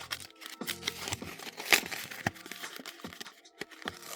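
Foil trading-card booster pack being handled and torn open: irregular crinkling of the wrapper with scattered sharp crackles, two louder ones in the middle.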